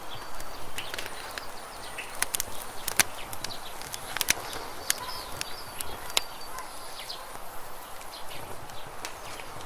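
Campfire burning with irregular sharp crackles and pops over a steady low hiss, several pops louder than the rest.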